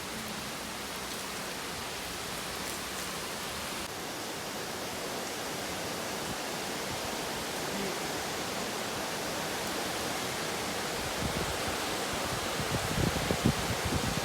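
Heavy rain falling, a steady, even hiss that slowly grows louder. Near the end a short run of low thuds comes through the hiss.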